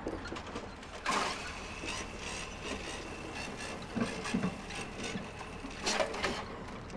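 Irregular clicks, knocks and rubbing of things being handled, with the loudest knocks about a second in and around six seconds in, over a faint steady high tone.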